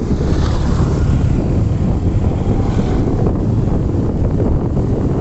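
Wind buffeting the microphone on a moving motorcycle: a steady, loud low rumble with the bike's running noise blended in.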